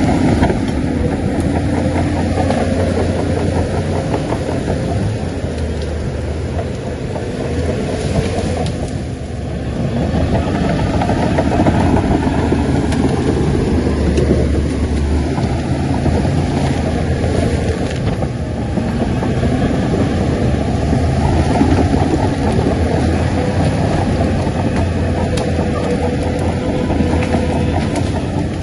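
Shantui bulldozer's diesel engine working steadily under load. The engine note eases for a moment about eight seconds in, then comes back up.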